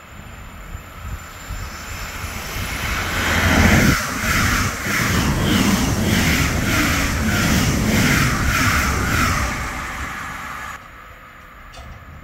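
Intercity passenger train running through a station without stopping: a rising rush of noise, then a rhythmic wheel clatter pulsing about one and a half times a second as the carriages go by. Near the end it cuts off suddenly to quieter background sound.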